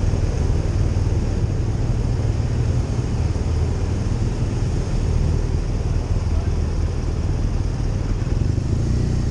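Motorcycle riding at steady speed: a continuous rush of wind noise and engine drone, heaviest in the low end and unchanging throughout.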